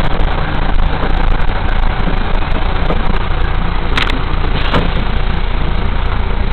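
Car engine running steadily under a dense rushing noise, with two short clicks past the middle.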